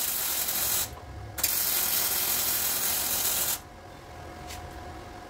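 Two bursts of loud hissing noise, the first about a second long and the second about two seconds, each starting and stopping abruptly.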